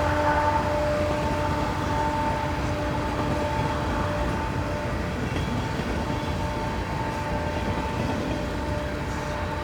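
A train running past: a low rumble with a steady hum of a few pitched tones riding on it, slowly fading away.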